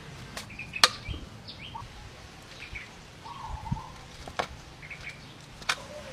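Small birds chirping now and then over a steady low background, with a few sharp clicks, the loudest about a second in.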